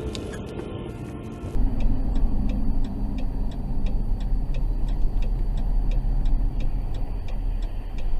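Car in motion with a loud, steady low rumble and a regular ticking about three times a second. It starts abruptly about a second and a half in, replacing music.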